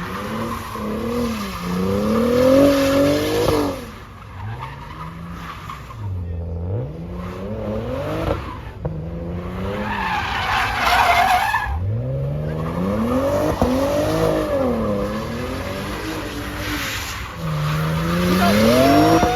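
A car's engine revving up and down hard as its tires squeal and skid through a burnout or donuts. There is a louder burst of screeching about ten seconds in.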